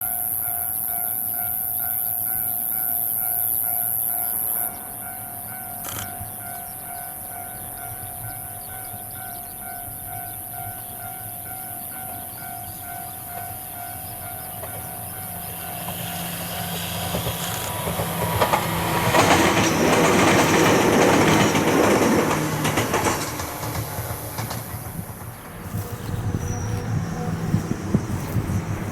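A level-crossing warning bell rings in a steady rapid repeat, then an Ohmi Railway train approaches and passes close by. The passing train builds up from about halfway through, is loudest for several seconds, then fades.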